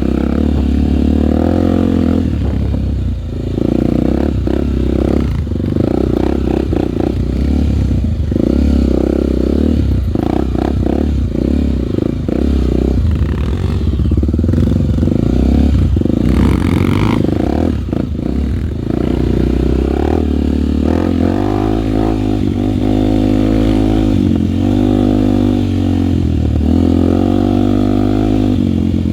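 Honda trail motorcycle's single-cylinder four-stroke engine running under way, its revs rising and falling repeatedly as it is ridden.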